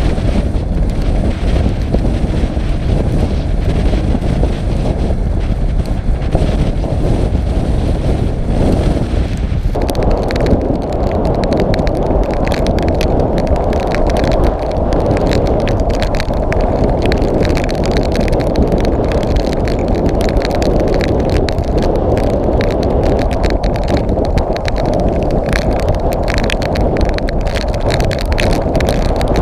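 Storm wind buffeting the microphone with a heavy, steady rumble and crackle. It grows stronger about ten seconds in.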